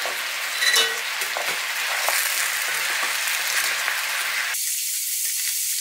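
Potato chunks, peppers and wheat rice cakes sizzling in hot sugar syrup in a wok as they are stirred with a wooden spoon, with a few light knocks about a second in as the rice cakes drop in. Near the end the sizzle thins to a high hiss.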